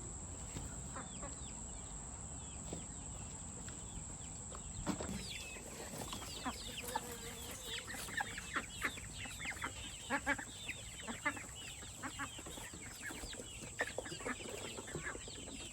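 Chickens clucking, many short calls overlapping from about five seconds in.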